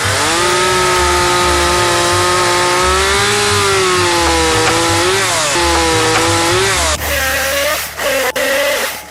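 Chainsaw running at high revs, its pitch sagging and recovering as it bites into wood. About seven seconds in the throttle drops, with a few short revs before it eases off.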